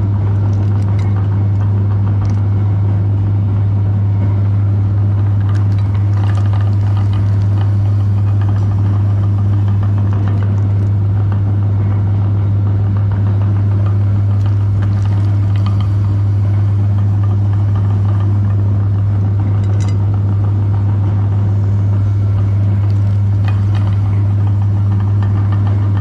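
Electric meat grinder running with a loud, steady motor hum, faint crackles scattered over it.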